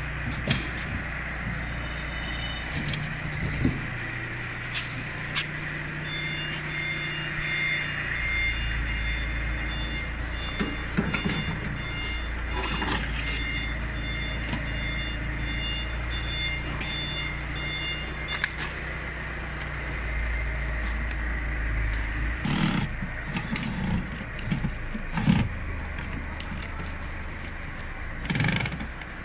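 Steady mechanical hum with scattered knocks and clicks. A pulsing beep runs through the middle for about twelve seconds.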